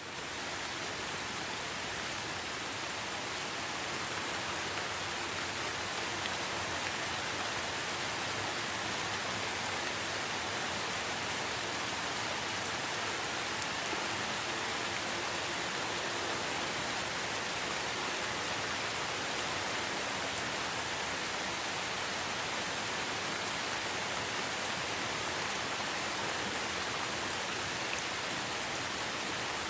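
Rainforest rain ambience: steady rain making an even, unbroken hiss that fades in at the very start and then holds level.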